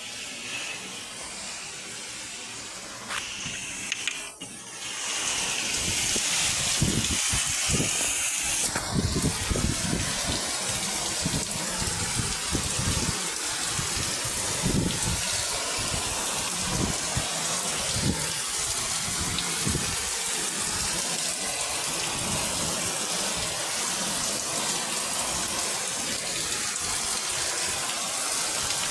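Heavy rain pouring down, a steady rushing hiss that gets louder about five seconds in.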